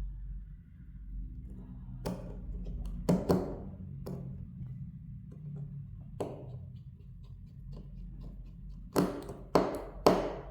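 Sharp clicks and knocks of small tools and phone parts being handled during a phone repair, about eight in all. The loudest come in quick pairs about three seconds in and near the end.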